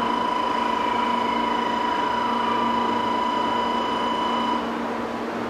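Shinkansen platform departure buzzer sounding as one steady, unbroken electronic tone that cuts off suddenly about four and a half seconds in, over a low steady hum from the platform and train.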